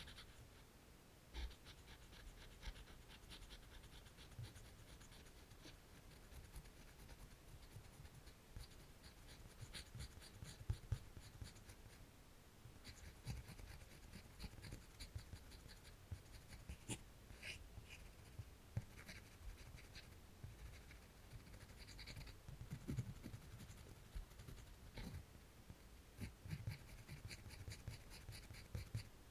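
Faint, scratchy strokes of drawing on paper, coming in quick runs with short pauses between them.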